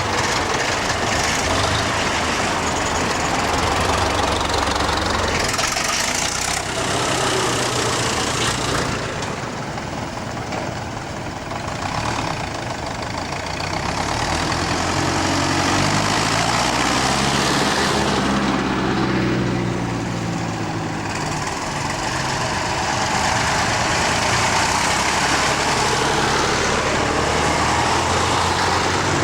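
Tractor engines running steadily. Past the middle, the engine note rises and then falls in pitch over a few seconds.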